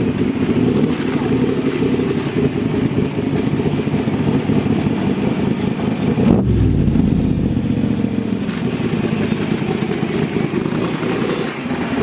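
Cobra roadster's V8 running with a deep, lumpy idle. About six seconds in, one blip of the throttle swells and then falls back to idle.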